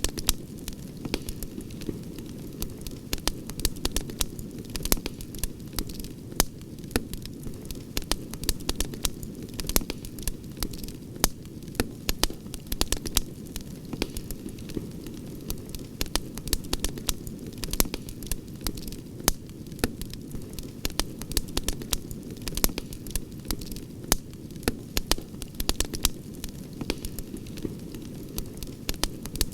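Wood campfire crackling, with frequent sharp irregular pops over a steady low rumble of burning.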